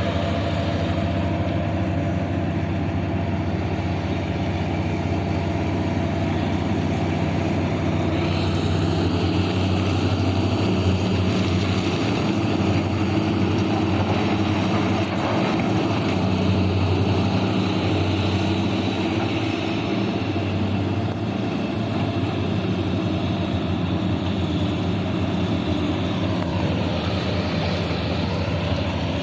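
Heavy diesel engine of a large mining dump truck running steadily with a deep, even drone.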